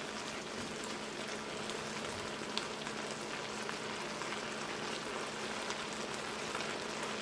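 Vegetables and broth sizzling and simmering in a hot wok, a steady hiss, with a light click about two and a half seconds in.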